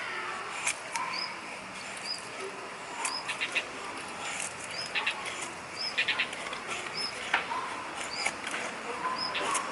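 A knife shaving curls off a stick to make feather sticks for a fire, in short scattered scraping strokes, while a small bird gives a short high chirp about once a second.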